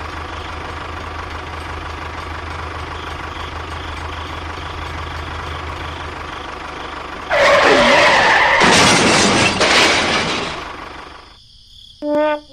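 A small motor runs steadily with a low hum. About seven seconds in, a much louder rough, scraping noise takes over for about three seconds and fades away. Musical notes start just before the end.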